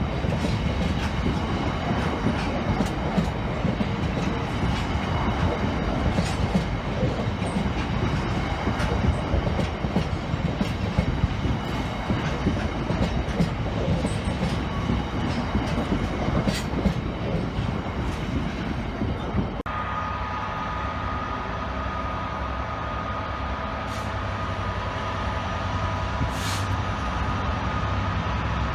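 A train running on the line with a dense rumble and scattered clicks from the wheels on the track. About two-thirds of the way through the sound changes abruptly to a steadier train hum with a held whine.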